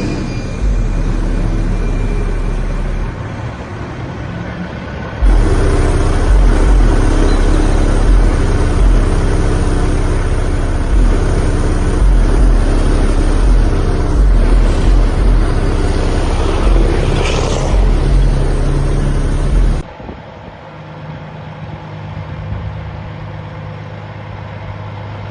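Semi truck giving a deep, pulsing low rumble, much louder from about five seconds in until it cuts off suddenly near twenty seconds.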